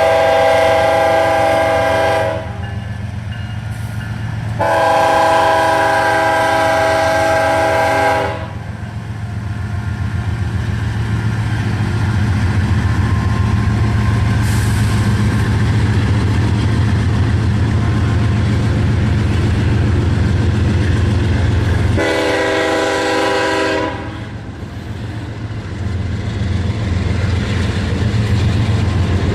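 Freight train's diesel locomotives passing with a steady low rumble, the lead unit sounding its multi-chime air horn: two long blasts, then a shorter one about 22 seconds in.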